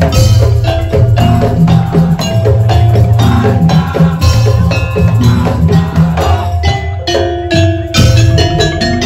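Madurese daul (tongtong) percussion music: struck wooden tongtong slit drums, drums and pitched mallet percussion playing a loud, dense rhythm.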